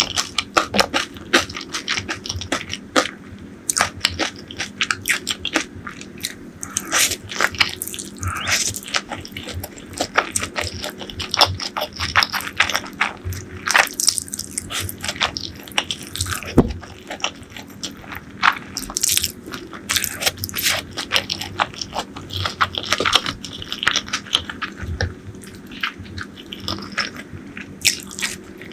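Close-miked eating sounds: a person biting and chewing crunchy fried food, with frequent irregular crisp crunches and wet chewing throughout.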